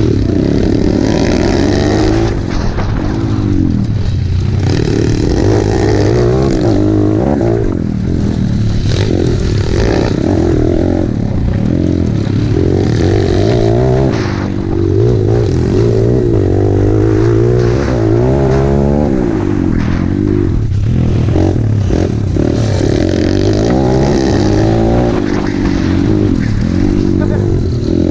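YCF dirt bike engine revving hard as it is ridden, its pitch rising and falling over and over with the throttle.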